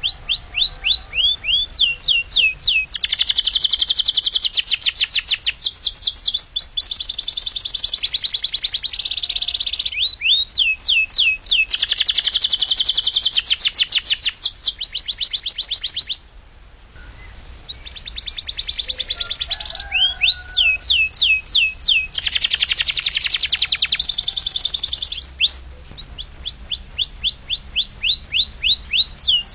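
Domestic canary singing in long rapid trills. Each run of quickly repeated notes gives way to another pattern every few seconds, and there is a brief lull about sixteen seconds in.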